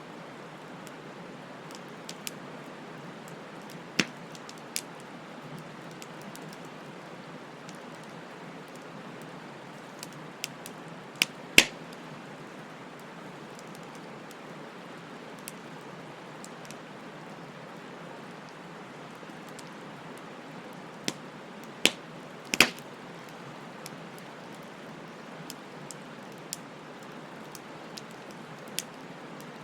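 Wood bonfire burning: a steady soft hiss with scattered sharp pops and crackles, the loudest a little before halfway and another pair about three quarters through.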